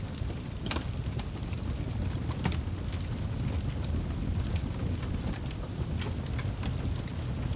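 Wood fire burning in a fireplace: a steady low rumble of the flames with irregular sharp pops and crackles from the firewood.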